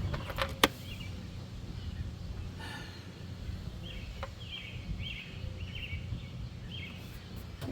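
Outdoor background of a steady low rumble, with a few sharp clicks near the start. A bird sings a run of short, repeated chirps in the second half.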